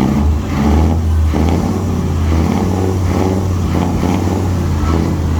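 Straight-piped Scania truck engine revving with a deep, loud exhaust note. It swells about a second in, then holds at fairly steady revs.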